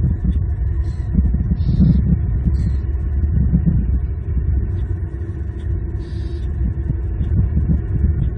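Steady low rumble on the outdoor cam microphone, like road traffic or wind, with a few short high chirps from small birds.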